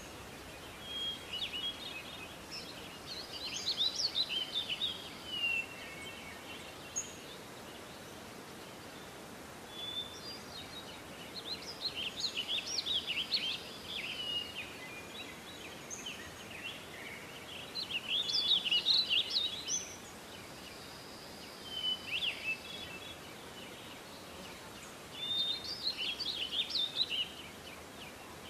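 A songbird singing short phrases of rapid chirping notes every few seconds, over a steady outdoor background hiss.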